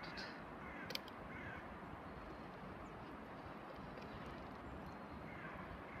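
A few faint bird calls, one group about a second in and another near the end, over a steady hiss of outdoor background noise, with a single sharp click about a second in.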